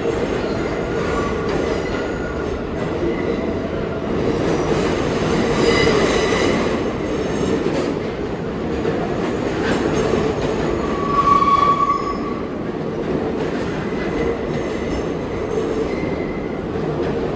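New York City subway train running through the station, a steady rumble of wheels on rail with brief wheel squeals. The loudest is a high squeal about eleven seconds in.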